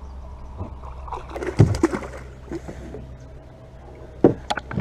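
Handling noise of fishing from a small plastic boat: a low thump against the hull about a second and a half in, light knocks and water sloshing, then a few sharp clicks and splashes near the end as the bass on the frog lure is hooked.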